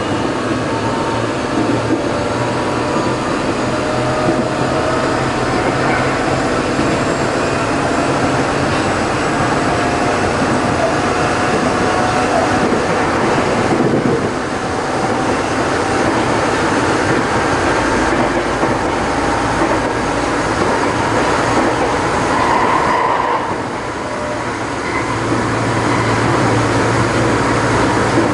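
Tokyo Metro 03 series train heard from inside the car while running, with the whine of its shunt-field chopper control and traction motors gliding slowly in pitch over the rumble of wheels on rail. This car's motor gives a slight abnormal noise. The sound dips briefly twice.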